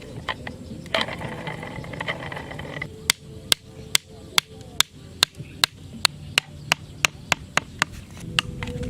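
A brief scraping noise, then a steady run of sharp taps or knocks, about two and a half a second, lasting several seconds.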